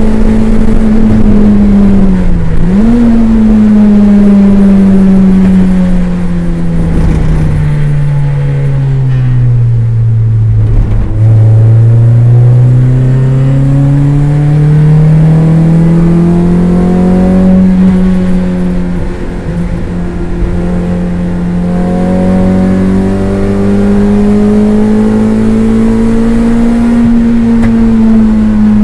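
Toyota MR2 race car's engine heard from inside the cabin, running hard under racing load. A brief dip in revs a couple of seconds in, then the revs fall steadily for about eight seconds to their lowest point near the middle and climb slowly back up over the rest.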